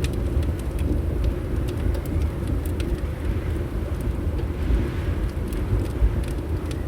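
Wood fire crackling, with scattered sharp pops, over a steady low rumble of wind.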